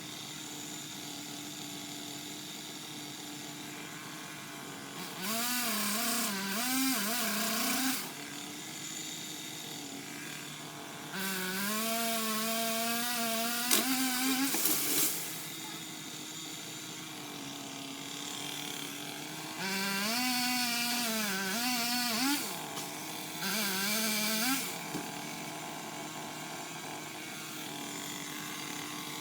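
Craftsman power limb cutter (a pole-mounted chainsaw) cutting tree limbs in four runs. Its motor pitch wavers and sags as the chain bites into the wood, and the chain rasps through the cut. Between cuts a steady, quieter hum carries on.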